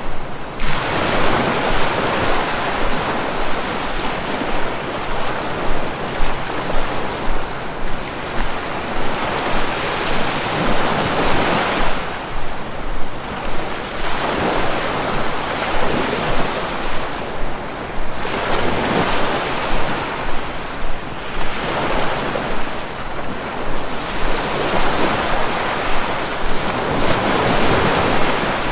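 Sea waves breaking and washing on a shore: a continuous rushing noise that swells and ebbs with each wave every few seconds.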